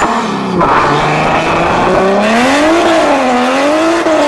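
Car engine revving hard, its pitch dipping, climbing, falling and climbing again, with a loud hiss joining in about half a second in.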